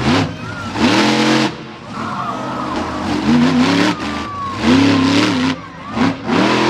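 Monster truck engine revved hard in repeated throttle bursts, about five times, each rising and falling in pitch, with a thin wavering squeal between the bursts.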